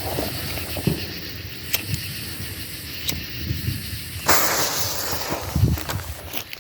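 Color pearl firework going off: a sudden hiss starts about four seconds in and fades over about a second, among scattered small pops and low thumps.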